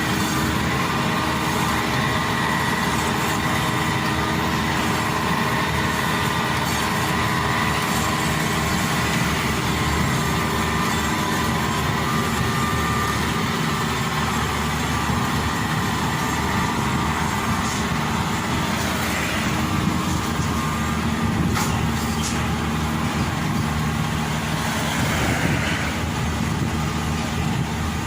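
Maxxi Bimo 102 rice combine harvester's engine running steadily under load, with a continuous mechanical clatter from the machine.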